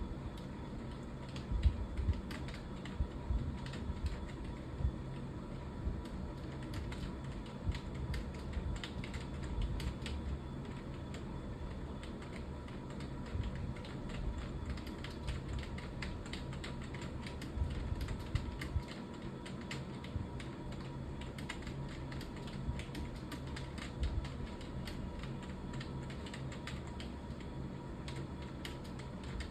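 Computer keyboard being typed on: a continuous run of irregular key clicks over a steady low hum.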